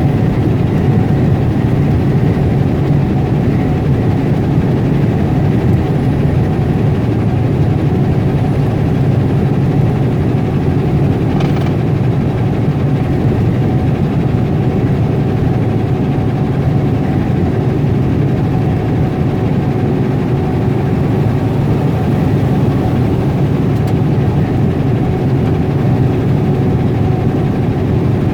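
Semi-truck engine running steadily while the rig drives along, heard from inside the cab as an even, low hum.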